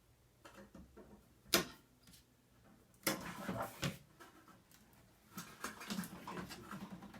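Microwave oven parts being handled during disassembly: a sharp knock about one and a half seconds in, then a second of metal clattering and scraping ending in a click, and fainter rattling near the end.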